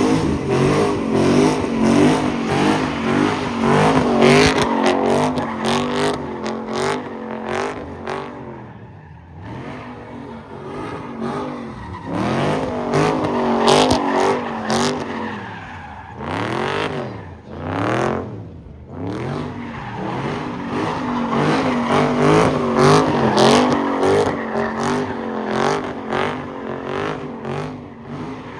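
Car engine revving hard, its pitch climbing and dropping again and again, with tire squeal from cars spinning in a pit.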